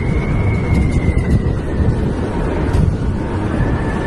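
Steady rumbling airflow and engine noise on a Boeing 747 flight deck on final approach, just after the minimums callout. A faint high whine drifts slightly up and down in pitch.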